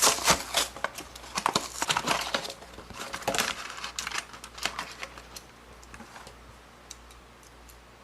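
Small hard toys and crinkly plastic being handled: a busy run of clicks and crinkles for about five seconds, then only a few scattered clicks.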